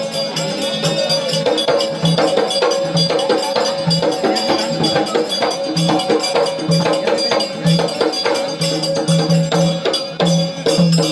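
Instrumental accompaniment for a Marathi Kalgi shahiri song: one steady held tone under quick, busy hand percussion with a jingling, rattling edge, with no singing yet.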